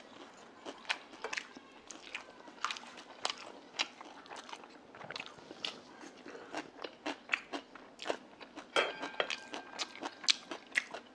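Close-miked chewing and eating: irregular mouth clicks and smacks, a few a second, as a man chews mouthfuls of grilled eel and rice.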